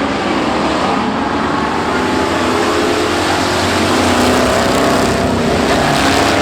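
Several pickup-truck engines running hard together in a truck enduro race, a loud, steady mass of engine noise with several pitches layered over one another.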